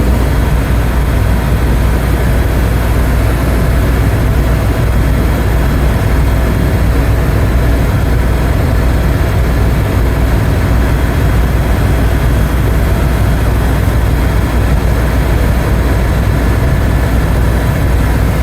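Tour helicopter in flight: a loud, steady drone of rotor and engine, heaviest at the low end, with a few faint steady tones above it.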